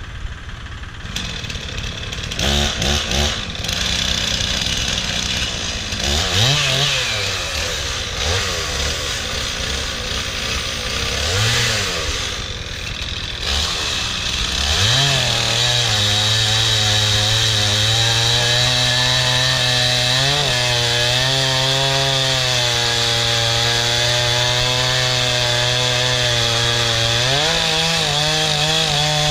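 Gas chainsaw blipping the throttle a few times, then held at high revs from about halfway while cutting through a log into firewood lengths. The note rises once more near the end and then drops.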